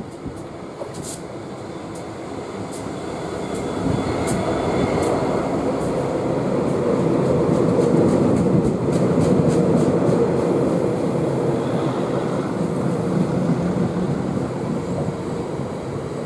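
Freight train passing on the rails: the rolling wheels of the wagons make a steady, dense roar that swells about four seconds in and stays loud.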